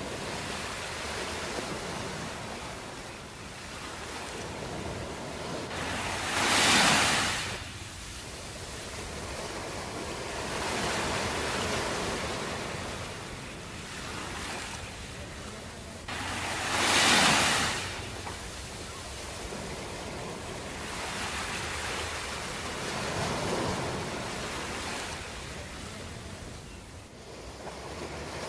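Ocean waves washing on a shore in a steady surf, with two louder waves breaking about 7 and 17 seconds in and gentler swells between.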